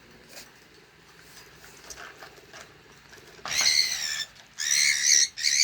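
Cockatiel calling: after a few quiet seconds with faint clicks, three loud pitched calls come in quick succession, starting about three and a half seconds in.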